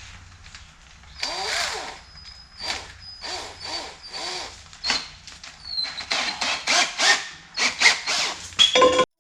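Old Craftsman electric drill run in repeated bursts, its pitch rising and falling with each pull of the trigger, with a high squeal from the bit. It stands in for a first drill that has overheated.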